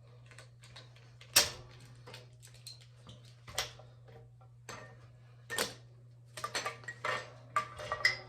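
Sharp metallic clicks and clinks as the tie strap holding a Harley springer fork's springs under tension is released: single clicks about a second and a half, three and a half and five and a half seconds in, then a quick run of clicks near the end.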